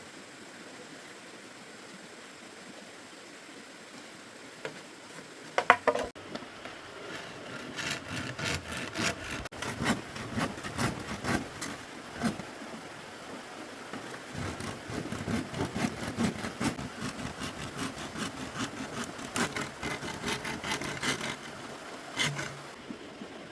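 Wood being sawn or scraped by hand with a blade, in rapid repeated strokes, after a few sharp knocks about six seconds in.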